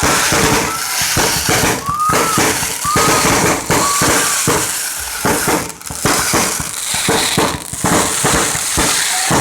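Fireworks and firecrackers going off in quick succession, a dense continuous crackle of sharp bangs, with a few short high whistling tones in the first half.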